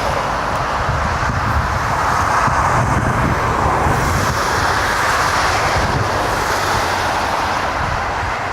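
Jet airliner engine noise heard from the ground, a steady rushing sound with a low rumble beneath that slowly gets quieter toward the end.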